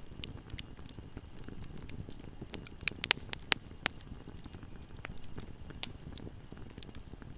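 Campfire crackling: a low steady rumble of burning wood with scattered sharp pops and snaps, a quick cluster of louder pops about three seconds in.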